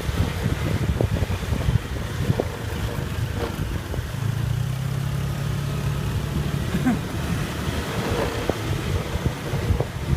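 Wind buffeting the microphone on a moving motorbike, over the low running of its engine; a steady low engine hum stands out for a couple of seconds about halfway through.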